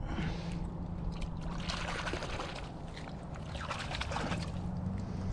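Water splashing and trickling twice as a small largemouth bass is let back into the lake, over a steady low hum.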